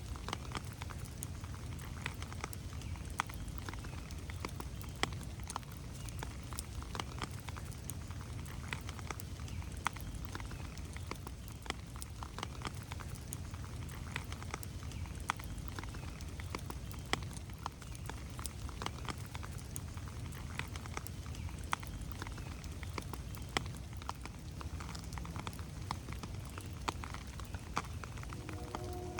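Rain dripping and pattering on forest leaves and the trail, irregular drops over a low steady rumble. Near the end a distant train horn starts, several tones sounding together as a chord.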